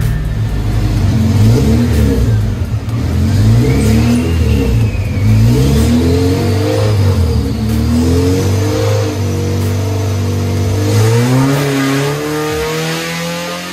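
Honda K20Z1 2.0-litre inline-four engine revving hard on a chassis dyno pull, its pitch climbing strongly near the end.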